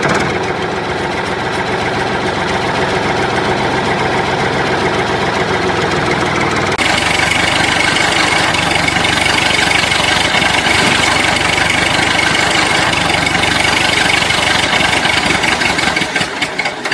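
A small motor running steadily, stepping up louder and brighter about seven seconds in.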